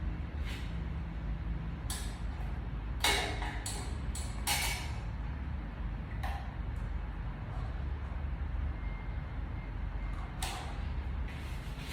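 Handling sounds: a few short clicks and rustles, the clearest about three, four and a half, six and ten and a half seconds in, over a low steady hum.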